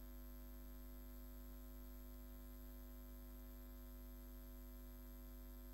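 Faint steady electrical hum with a light hiss, unchanging throughout: mains hum in the recording.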